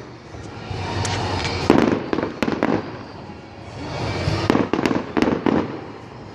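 Fireworks going off: two clusters of sharp bangs and crackles, one about two seconds in and another around five seconds in.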